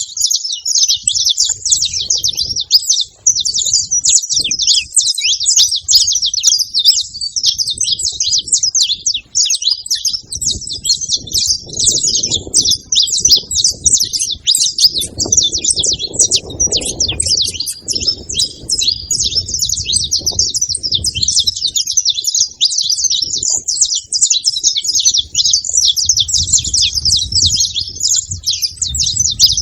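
Several saffron finches chirping and singing together in a rapid, unbroken chatter of high notes. A low rumble comes and goes underneath, strongest about halfway through.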